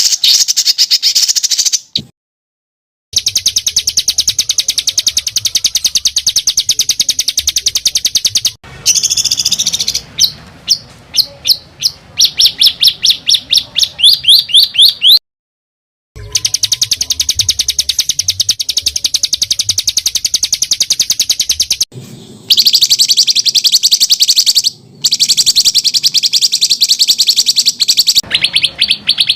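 Songbird giving harsh, very rapid rolling trills (kasaran and tight rolls), a bird-competition training recording. The long runs of rattling notes stop abruptly for about a second twice; in the middle comes a series of separate sharp upswept notes that speed up and grow louder before the dense trill resumes.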